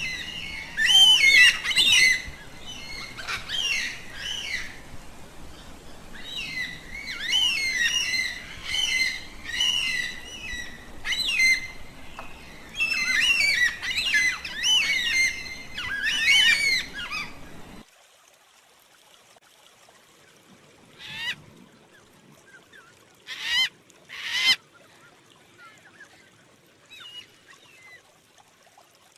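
A flock of birds calling in a dense chatter of quick, wavering calls. About two-thirds of the way in it switches abruptly to a quiet background with only a few short, sparse calls.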